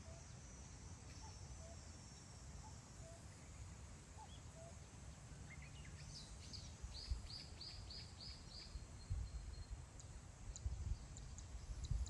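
Wind blowing across a grassland, a low rumble that turns gustier in the second half. Midway a small songbird sings a short phrase of a few rising notes and then about six quick repeated high notes. Short high chips follow near the end.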